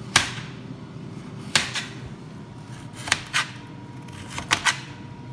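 Kitchenware knocking and clinking: about seven sharp knocks, several in close pairs, the first the loudest, over a faint steady hum.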